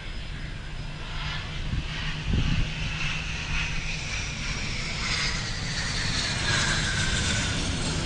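Airplane passing by, its engine whine falling slowly in pitch over a steady low rumble.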